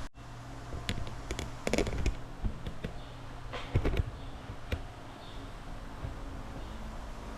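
A few scattered clicks and knocks, clustered about two seconds and four seconds in, over a steady low hum.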